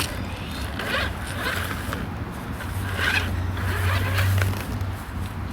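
Toy remote-control monster truck's electric motor and gears whirring in surges as it is driven through thick grass, with short rasping bursts, strongest about 3 to 4.5 seconds in.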